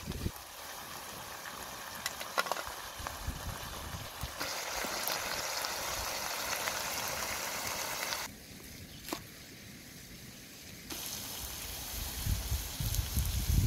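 Chicken gizzards sizzling in a steel wok over a wood fire, a steady hiss that grows louder about four seconds in and drops away for a few seconds around eight seconds, with a few sharp clicks. Low thuds come in near the end.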